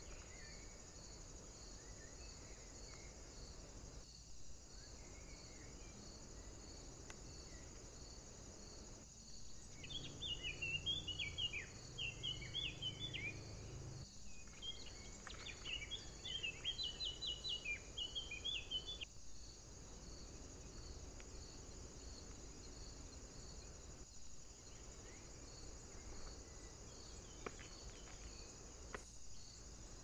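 Steady high insect chirring runs throughout. About ten seconds in, a songbird sings two bursts of rapid, varied twittering notes, each a few seconds long, the loudest sound here.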